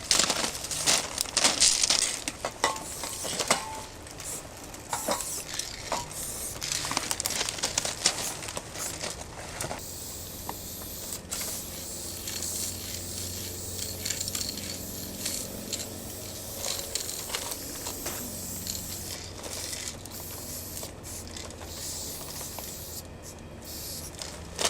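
Aerosol spray-paint cans hissing in many short bursts, dense for the first ten seconds and sparser after, over a faint steady low hum.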